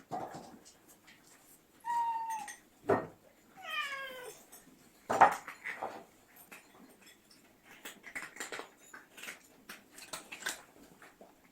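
Cats meowing: one short meow about two seconds in and a longer, falling meow about four seconds in, among sharp clicks and knocks like dishes being handled.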